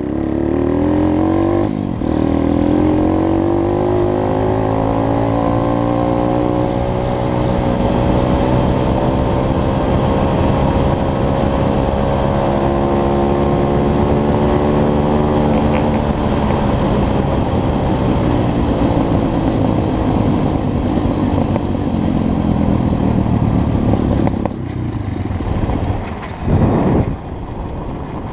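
Pit bike engine running hard, its pitch climbing steadily for about fourteen seconds and then falling away. Near the end it turns rough and uneven, with a loud burst.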